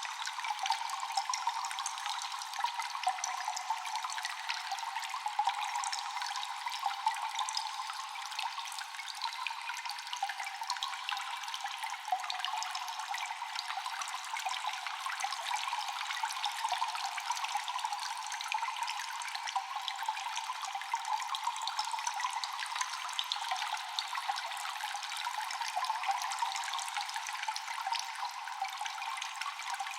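Water dripping steadily in a cave: many small drops falling in quick, irregular succession over a continuous trickle of running water, echoing.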